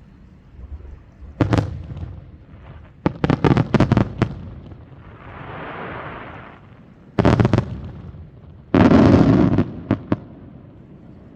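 Fireworks bursting: a single bang, then a quick run of sharp crackling reports, a soft hiss, then two more loud bursts and two small pops near the end.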